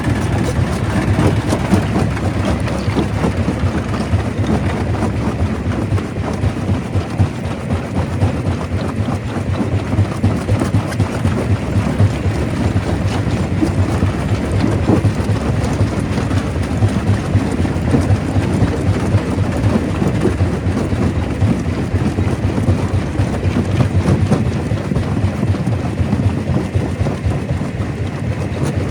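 Stone crusher running with rock going through it: a steady, loud low rumble packed with dense, irregular cracking and knocking of stone being broken.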